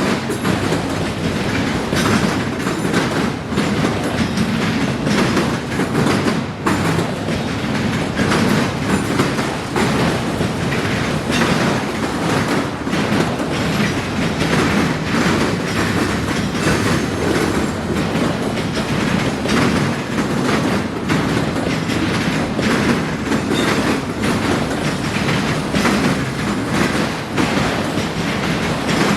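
Freight cars of a long train rolling over a railroad diamond crossing, steel wheels banging across the crossing's gaps in a steady run of sharp clacks over a continuous rolling roar, with a little wheel squeal.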